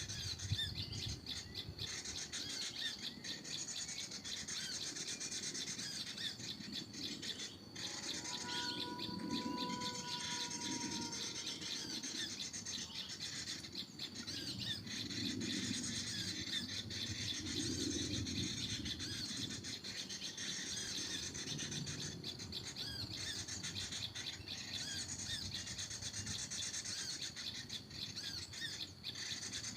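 Many small birds chirping continuously with rapid high-pitched calls. A steady whistled tone sounds for a few seconds about eight seconds in.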